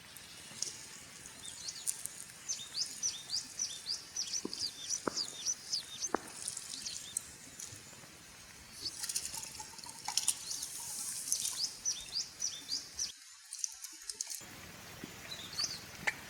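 A small songbird chirping in quick repeated runs, about three short calls a second, over the steady rush of flowing river water. The water sound drops out briefly about thirteen seconds in.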